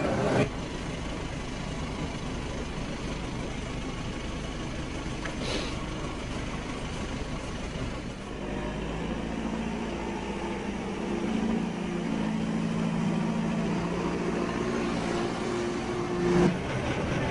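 A motor vehicle's engine running under a steady rumbling noise, with a steadier engine hum coming in about halfway through and a short knock near the end.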